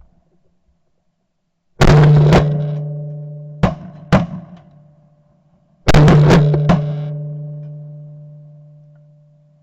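Two heavy impact hits about four seconds apart, each a sharp crack followed by a low ringing tone that fades slowly over several seconds, typical of a cinematic boom effect added in editing. Shotgun shots crack among them, two more coming singly between the hits.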